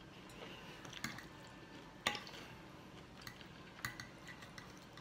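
Spaghetti being chewed: faint wet mouth sounds, with a few sharp clicks about one, two and nearly four seconds in.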